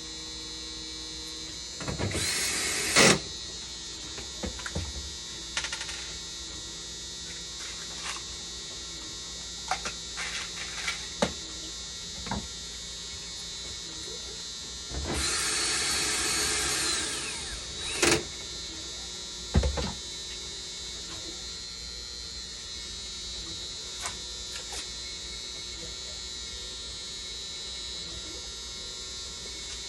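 A small motor whirs in two bursts, a short one of about a second and a longer one of about two and a half seconds that winds down at the end. Both sit over a steady high-pitched whine, with scattered clicks and taps from handling parts.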